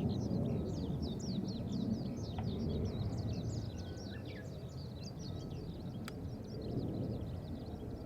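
Low, distant rumble of a Boeing 737-800's CFM56 jet engines as the airliner climbs away, slowly fading. Many small birds chirp rapidly and continuously over it.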